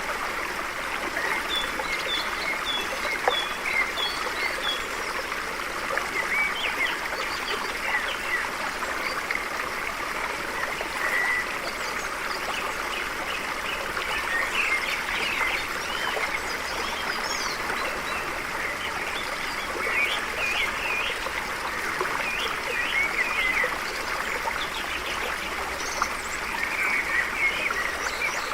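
A stream flowing and trickling steadily, with birds chirping and warbling over it; one bird gives a run of about six short, high, evenly spaced notes in the first few seconds.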